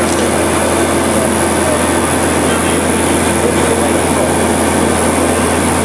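Seaplane's propeller engines running at a steady, loud drone, heard from inside the cabin during the landing approach.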